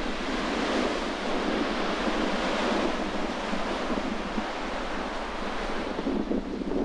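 Sea waves washing against the shore in a steady rushing wash, with strong wind buffeting the microphone in gusts that grow near the end.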